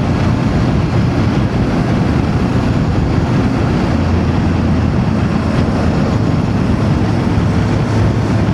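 Voge DS525X's parallel-twin engine running steadily at cruising speed, with a constant rush of wind and road noise over it.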